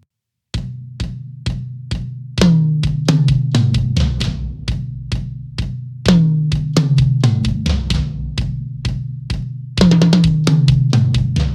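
Close-miked Yamaha Recording Custom drum kit played with no music or talk. After a brief silence, light strokes come about twice a second. Three times, a loud tom hit drops in pitch as it rings and leads into a quicker run of strokes.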